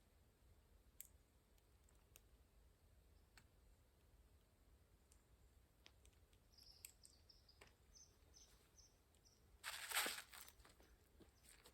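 Near silence in the open air, broken by a quick series of faint, short, high bird call notes over a few seconds. Near the end comes a brief, louder burst of rustling noise.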